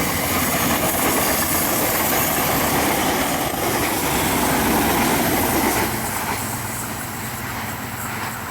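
A train passing close by: loud rushing wheel-on-rail noise for about the first six seconds, then easing off, leaving a steady low engine hum.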